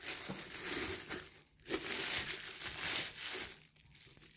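Crinkling and rustling of packaging being handled, in two stretches with a short pause between, falling quiet near the end.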